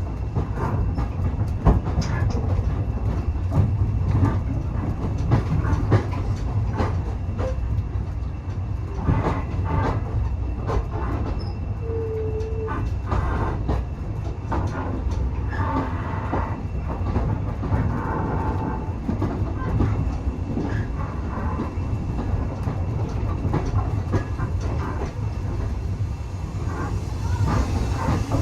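Railway carriage running along the track, heard from on board: a steady low rumble with the clickety-clack of the wheels over rail joints.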